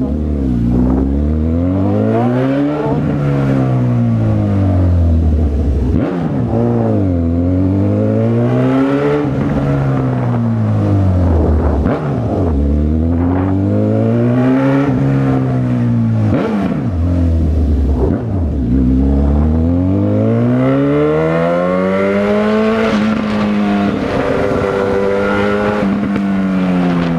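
Honda CB1000R's inline-four engine under way, its pitch repeatedly climbing as the throttle opens and sliding back down as it rolls off, a rise and fall every few seconds with brief sharp breaks between some of them.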